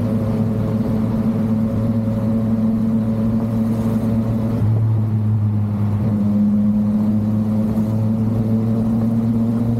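Yamaha MT-09's inline three-cylinder engine running steadily under way, holding an even note that dips slightly about halfway through.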